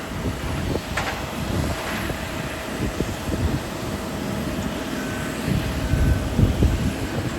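Strong gusty wind buffeting the phone's microphone, over the steady drone of an aircraft engine at the airport.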